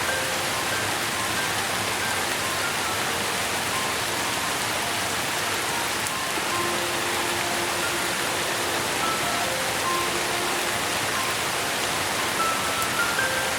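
Steady rain, an even hiss, with a soft, slow melody of single held notes playing quietly over it.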